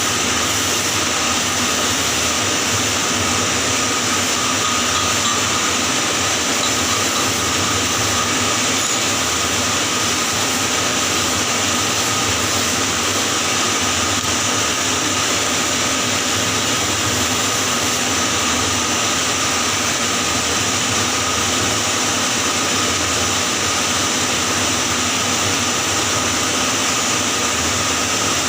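Welding arc burning steadily on a 6G pipe weld: a continuous hissing crackle that does not break.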